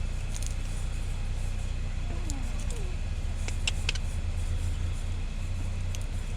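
Car running, heard from inside the cabin: a steady low hum, with a few light clicks about midway.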